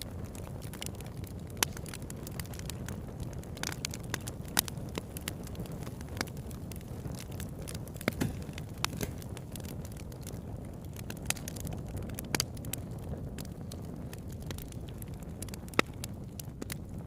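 Campfire burning: a steady low rush under frequent sharp, irregular crackles and pops of burning wood.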